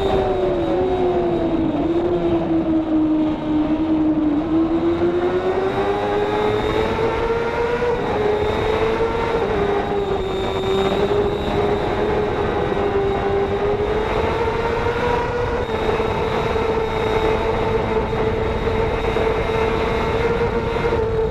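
Racing motorcycle engine running hard at high revs. Its pitch dips about two seconds in, climbs back by about eight seconds, then keeps rising and falling a little as the rider eases off and accelerates through the turns.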